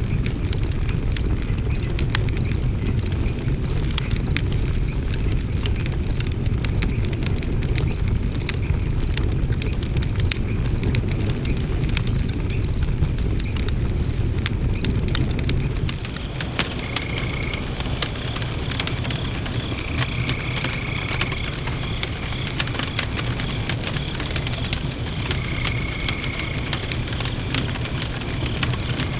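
Wood fire burning in a fire pit, crackling and popping continuously over a low rumbling undertone.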